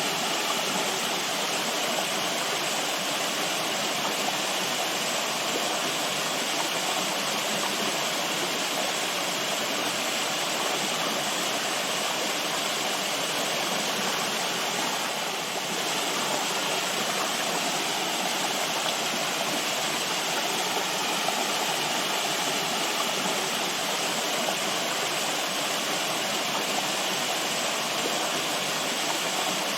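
Running water, a steady even rush like a stream or small waterfall, with a brief slight dip in loudness about halfway through.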